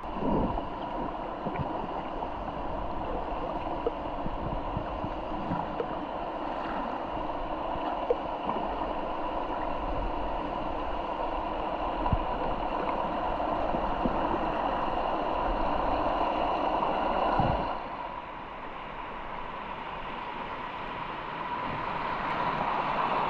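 Mountain river water running and gurgling steadily, with a few scattered light knocks; it grows quieter about 18 seconds in, then slowly builds again.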